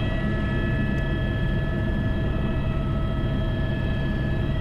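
Airbus H125 helicopter running: a steady turbine whine made of several fixed high tones over a constant low rotor and engine rumble.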